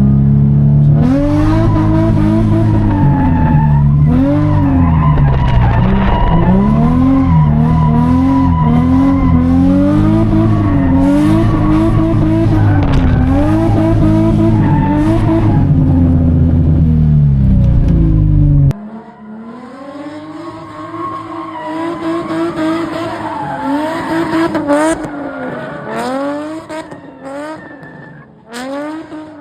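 Infiniti G35's V6 engine revving up and down over and over while drifting, with tyres squealing. About two-thirds of the way through it cuts suddenly to a much quieter take of the engine still revving.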